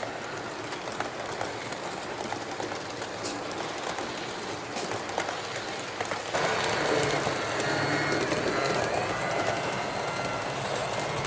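HO-scale model train running on the track: a small electric motor hums with clicks from the wheels and rail joints. About six seconds in it gets louder and a steady motor whine comes in as the train nears.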